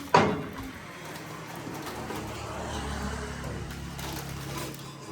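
A sharp knock just after the start, then an engine running steadily in the background with a low, even hum.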